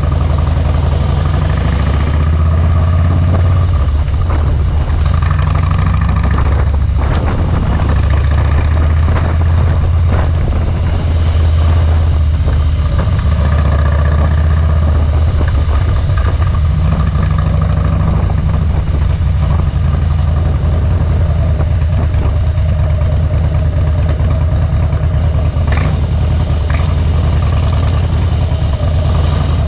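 2013 Harley-Davidson Softail Deluxe's V-twin engine running through Vance & Hines Straight Shots slip-on mufflers under way, a deep steady exhaust note whose pitch shifts a little with the throttle.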